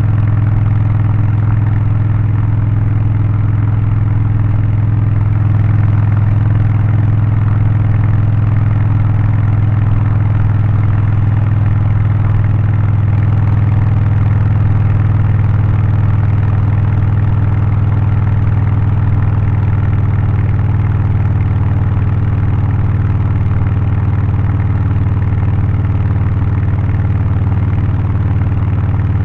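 Harley-Davidson Low Rider ST's Milwaukee-Eight 117 V-twin with a Stage 1 remap, aftermarket exhaust and air filter, running loud and steady at an even engine speed, with no revving.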